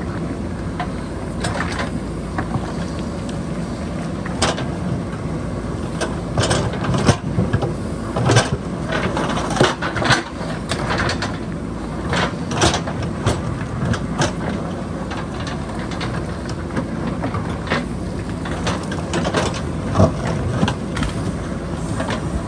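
JCB backhoe loader's diesel engine running steadily, with repeated sharp knocks and clatters of the bucket striking and scraping rock. The knocks come thickest in the middle stretch and again near the end.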